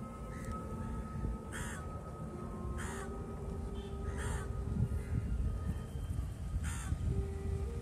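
Four short, harsh bird calls, spaced a second or two apart, the last near the end, over a steady low background rumble.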